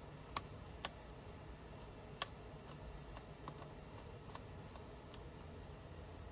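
Faint, scattered light clicks and taps of small parts and a tool being handled on an opened laptop, over low room noise; the sharpest clicks come about half a second, one second and two seconds in.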